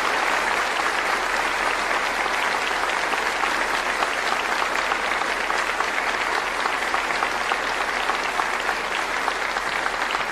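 Audience applauding steadily: sustained clapping from a large crowd.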